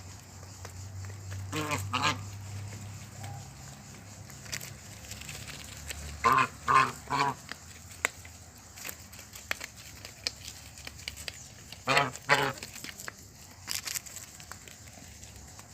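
Domestic geese honking in short groups: two honks about two seconds in, a run of four around six seconds, and two more near twelve seconds.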